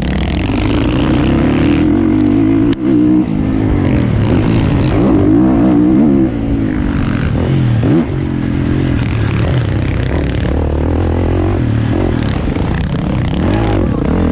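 450cc four-stroke motocross bike engine under hard throttle, its pitch rising and falling constantly as the rider opens and closes the throttle and shifts, with brief drops in level and a sharp click about three seconds in.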